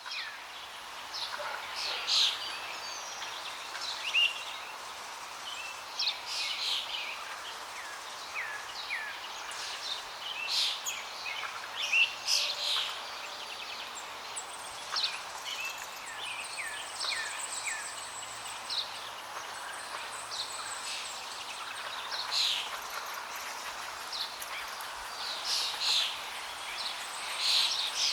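Many birds chirping and calling over a steady rush of flowing water.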